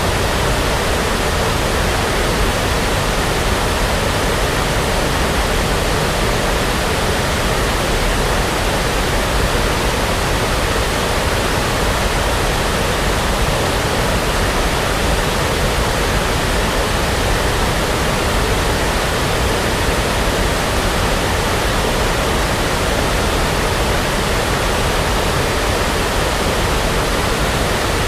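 Steady brown noise, a constant rushing hiss weighted toward the low end, with no change in level.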